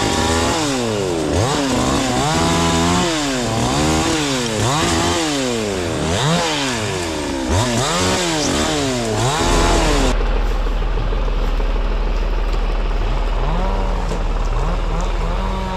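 A two-stroke chainsaw revving up and down again and again. About two-thirds of the way in it gives way abruptly to a steady low engine hum that rises briefly in pitch a couple of times near the end.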